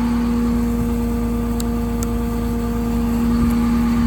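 Caterpillar C7 diesel of a service truck running steadily with a strong, even whine, as its hydraulics work the crane and outriggers. Two faint ticks come about halfway through.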